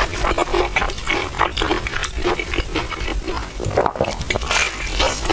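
Close-miked eating: wet slurping and chewing, with a rapid, irregular run of mouth clicks and smacks.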